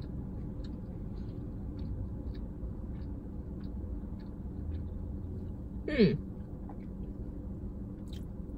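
Close-up chewing of a bite of a chicken wrap: soft wet mouth clicks a few times a second over a low steady hum. About six seconds in, a short voiced "hmm" that falls in pitch.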